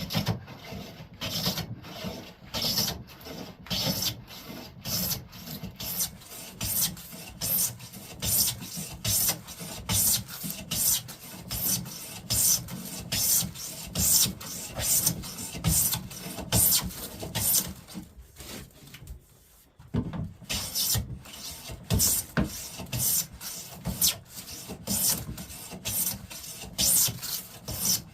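Hand plane stroking along the edge of a wooden board, taking shavings in a steady rhythm of rasping passes, with a short pause about two-thirds of the way through. The board's edge is being planed straight and square for an edge joint.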